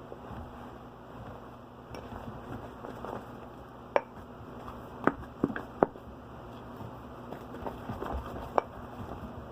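Slime being worked in a mixing bowl: a handful of sharp taps and clicks, like a utensil knocking the bowl, bunched about four to six seconds in and once more near the end, over steady low room noise.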